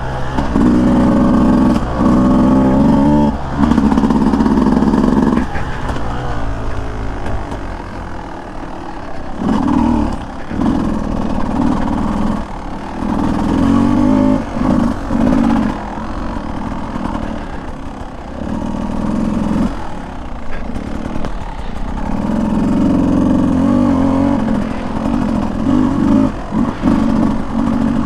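Beta 200 two-stroke dirt bike engine under way on a trail, its revs rising and falling as the throttle is worked, with loud stretches broken by quieter lulls.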